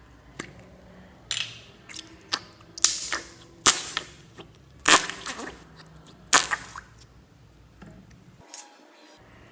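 Slime being squeezed and mixed by hand, giving a run of sharp, loud pops and crackles. They bunch in the first six or seven seconds, with two faint ones near the end.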